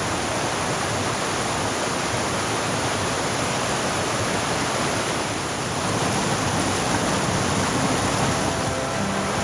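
Steady, even rushing of a waterfall's falling water, close by. Faint music comes in near the end.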